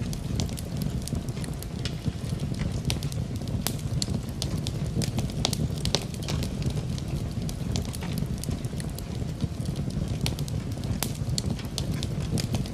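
Wood fire in a fireplace crackling, with many irregular sharp pops and snaps over a steady low rumble, mixed with steady rain.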